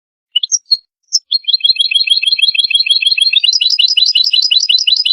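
European goldfinch singing: a few short chirps, then from about a second in a fast run of repeated twittering notes that steps up in pitch about halfway through.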